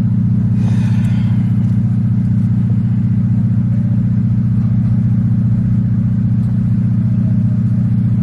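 Car engine running with a steady low hum, heard from inside the cabin, with a brief noise about a second in.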